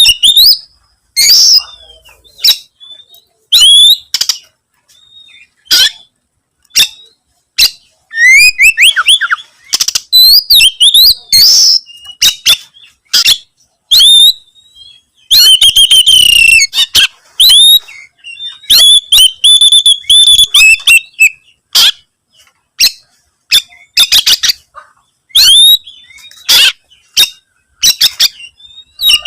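Oriental magpie-robin (kacer) singing loudly and persistently in bursts of varied whistles, sweeping notes and quick harsh phrases, with short pauses between them: territorial song aimed at a rival.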